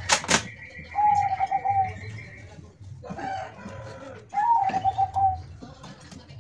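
A dove cooing: short trilled calls of rapid repeated notes, three times. Two sharp knocks at the very start.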